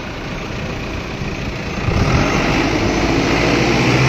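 Heavy farm tractor engine running steadily while hauling a load of sugarcane, growing louder about two seconds in.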